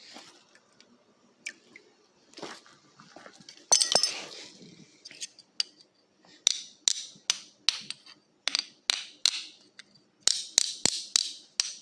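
Metal being knocked repeatedly: a louder clatter about four seconds in, then a steady run of sharp clinks, about two to three a second, in the second half.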